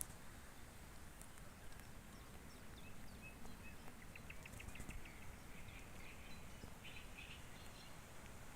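Faint outdoor birdsong: a few short high chirps, then a quick run of about eight repeated notes around the middle, and more chirping near the end, over a steady low background rumble.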